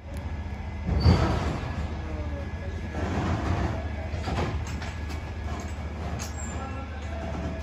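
A train running on the track: a steady low rumble with irregular rattles and clanks from the railway coaches, and a loud knock about a second in.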